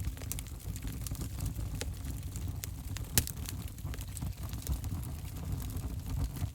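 Wood fire in an open fireplace crackling, with frequent sharp pops, the loudest about three seconds in, over a steady low rumble of burning.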